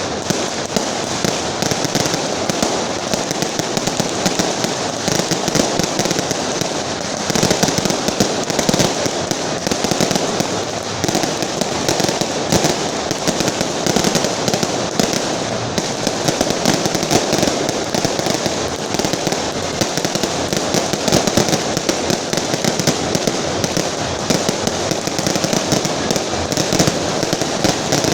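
A long carpet of strung firecrackers going off in a dense, unbroken crackle of rapid bangs, loud and sustained throughout.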